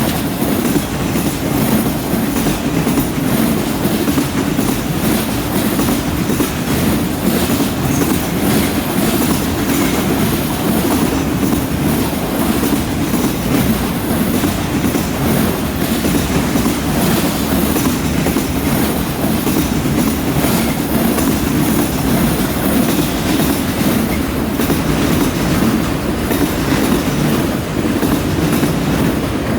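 Freight train rolling steadily past: a continuous, loud rumble of its cars' wheels on the rails.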